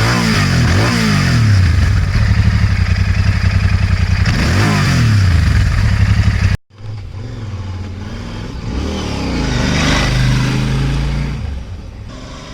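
Royal Enfield 650 parallel-twin motorcycle engine revving through its exhaust, the revs rising and falling in several throttle blips. The sound cuts out abruptly about six and a half seconds in, then the engine comes back quieter and swells up again around ten seconds.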